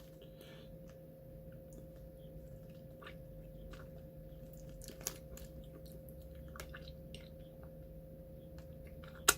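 Quiet chewing and crunching of a sherbet cola candy stick dipped in its sherbet powder, with scattered small clicks and one sharp click near the end, over a steady electrical hum.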